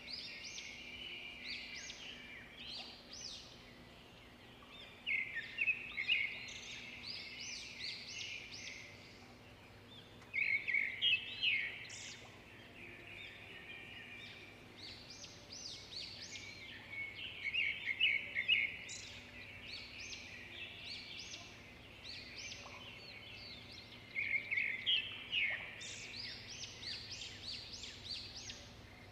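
Songbirds singing: bouts of rapid, high chirping phrases that come every few seconds, with quieter gaps between, over a faint steady hum.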